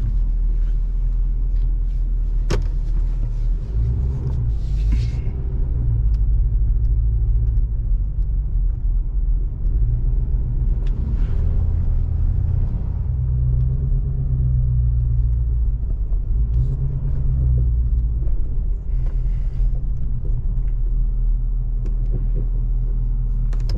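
A vehicle being driven: a steady low rumble of engine and road noise.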